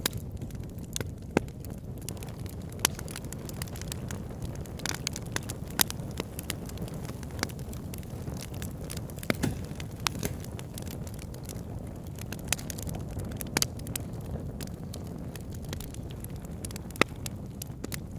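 Fire burning in a fireplace: irregular sharp crackles and pops, a handful of them louder, over a steady low rumble of the flames.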